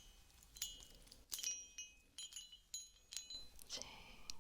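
Small heart-shaped bell rung gently several times, each strike leaving high, thin ringing tones that fade quickly.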